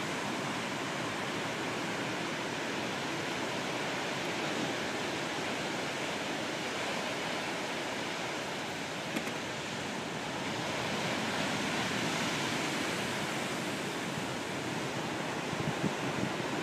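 Rough sea surf after a typhoon, waves breaking and washing on the shore as a continuous rush of water, with a few brief low thumps near the end.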